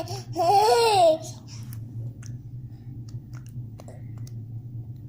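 A baby babbling: one drawn-out vocal sound that rises and falls in pitch in the first second, then faint scattered mouth clicks as the baby chews on his tongue, over a steady low hum.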